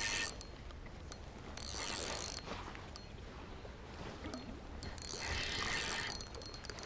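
Fishing reel being cranked in spurts while playing a hooked small steelhead, a mechanical whirring with some clicking. There are two spells of winding, the second longer, near the end.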